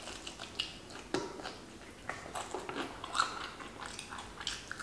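Close-miked biting and chewing of crispy fried chicken: scattered small crunches and crackles, with a few louder bites.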